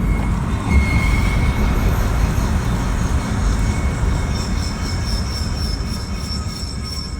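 A 2018 Jeep Renegade making a loud, steady grinding rumble with thin high-pitched squealing tones over it, easing slightly toward the end. The owner cannot tell its cause: a noise that comes once or twice a year and stops after a few minutes or after shifting into reverse.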